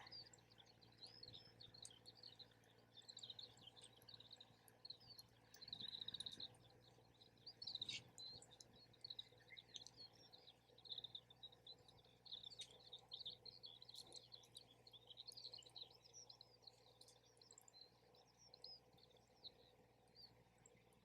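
Faint, continuous twittering of small birds, with a few sharp crackles from a wood campfire.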